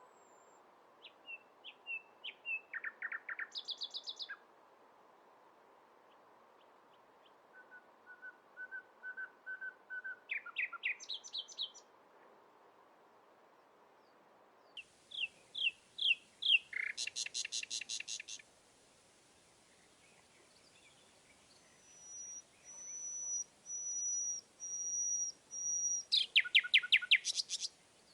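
A songbird singing four phrases, each a run of quick repeated notes that climbs in pitch and ends in a fast, high trill. A thin, high, steady whistle sounds in short pieces during the last phrase.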